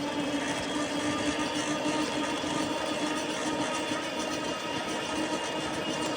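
Lectric electric bike riding at a steady speed: the rear hub motor gives a steady whine over the noise of tyres and wind.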